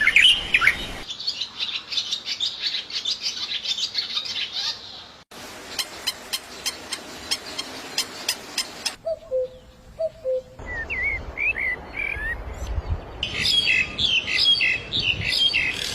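Small birds chirping and trilling in quick, high repeated notes, in several short stretches that cut in and out abruptly. Near the middle there are sharp clicking calls and a brief lower two-note call.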